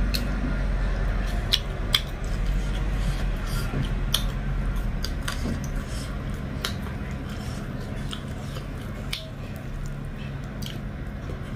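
Close-up eating sounds of a person chewing dhido and chicken curry: wet chewing with short, sharp mouth smacks every second or so, over a steady low hum.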